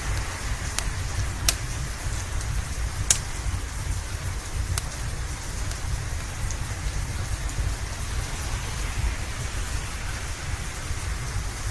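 Steady rain with a low rumble beneath it, and a few sharp crackles and pops from a wood fire in the first five seconds.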